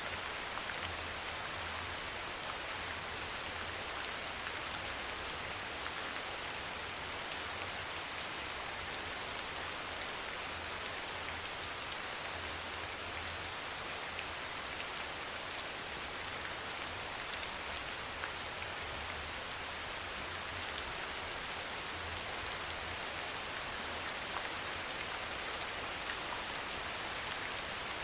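Steady soft rain falling, an even hiss with a faint low rumble underneath.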